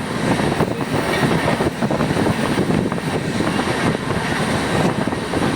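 A moving passenger train, its wheels and carriages running on the rails in a steady, loud rumble.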